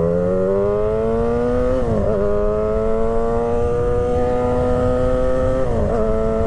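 2008 Yamaha YZF-R6 inline-four engine accelerating hard, its pitch climbing steadily, with a quick upshift about two seconds in and another near the end.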